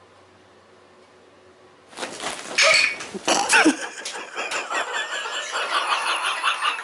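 Faint hiss, then about two seconds in a loud home-video clip cuts in: a pet cat's rising and falling cries mixed with people's voices and laughter.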